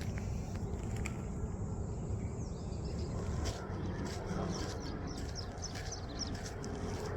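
Outdoor walking ambience: a steady low rumble with occasional light footfalls. From about four seconds in, a bird gives a string of short, high chirps.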